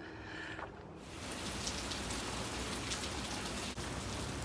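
Rain falling hard, a dense, steady patter with individual drop ticks, starting suddenly about a second in after a quiet moment.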